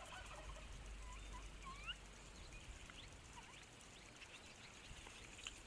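Near-quiet outdoor ambience with faint, short rising bird chirps, most of them in the first two seconds.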